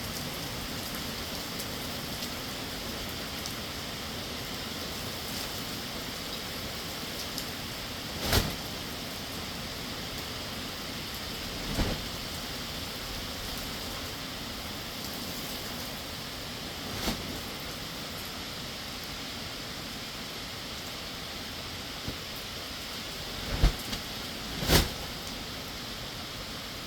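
Heavy rain falling steadily, with about five sharp single knocks of large drops striking close by, spread out through the downpour.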